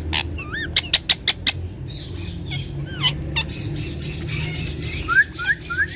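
Ringneck parrots calling: short squawks and whistled chirps that glide up and down in pitch, with a run of sharp clicks about a second in and three quick rising chirps near the end.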